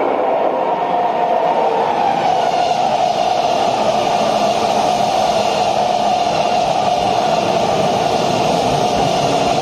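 Meguro Line through-service electric commuter train passing a station at speed without stopping: a steady rush of wheel-on-rail noise with a sustained mid-pitched hum.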